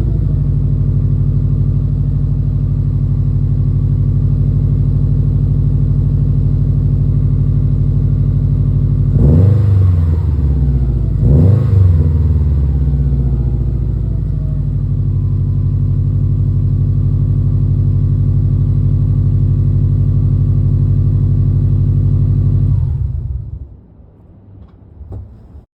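2020 Subaru STI's turbocharged flat-four idling through a CP-E Austenite muffled axle-back exhaust, blipped twice in quick succession about ten seconds in, each rev falling back to a steady idle. The engine is switched off a few seconds before the end.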